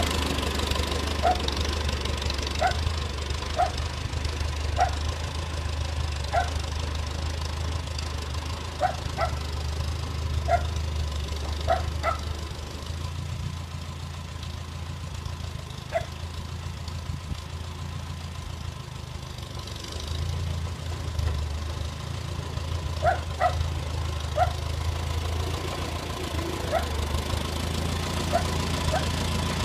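Farmall A tractor's four-cylinder engine idling steadily. Over it a dog barks again and again in short single barks, spread out across the whole stretch.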